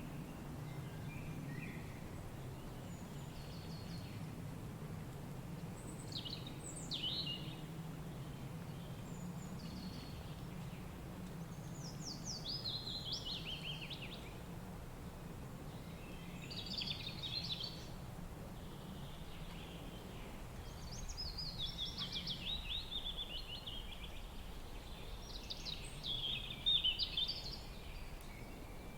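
Wild songbirds singing short, rapid phrases that mostly slide downward, one every few seconds, over a steady low rumble of wind.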